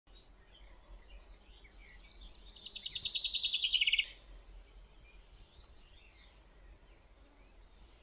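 A songbird's fast, even trill starts about two and a half seconds in, grows louder, dips slightly in pitch and stops abruptly about four seconds in. Faint chirps of other birds can be heard around it.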